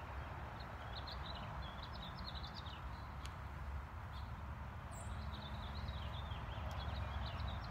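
Small birds chirping repeatedly in short, high calls over a steady low outdoor rumble.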